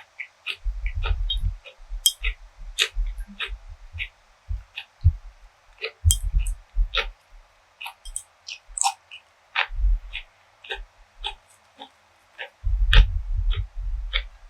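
Close-miked eating sounds: chewing with many sharp, wet mouth clicks and irregular low bumps, heaviest near the end.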